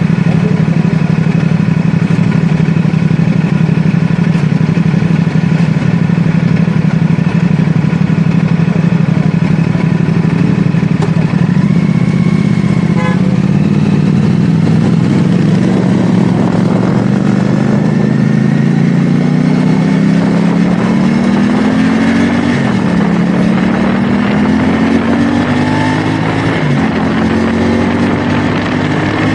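CFMoto 450SR S parallel-twin engine running at steady speed, then accelerating from about halfway: the revs climb, drop with an upshift, climb again, and drop with a second upshift near the end before climbing once more. There is an even rush of wind noise throughout.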